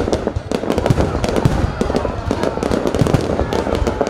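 Fireworks display: a dense, unbroken barrage of sharp bangs and crackles, many a second, with deep booms underneath.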